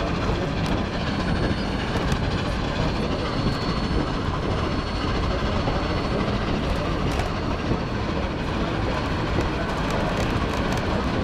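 Steady rumble and rattle of an open-sided railroad passenger car rolling along the track, with scattered sharp clicks from the wheels.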